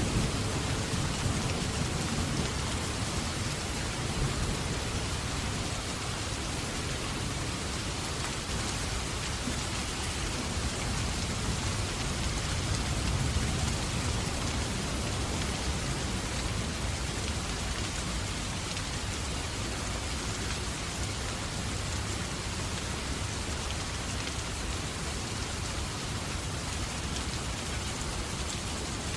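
Steady rain falling, an even hiss, with the low rumble of a thunderclap dying away in the first couple of seconds.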